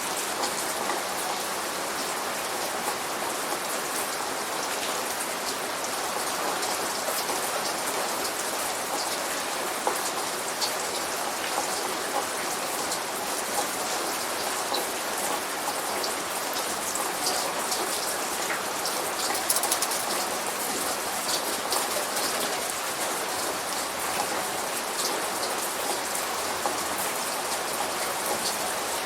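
Steady light rain falling on a surface, with many fine drop patters and no thunder.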